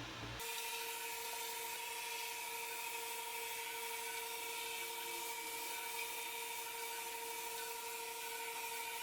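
Xiaomi Mijia Mop P robot vacuum running: a steady high motor whine over a hiss, starting abruptly just under half a second in.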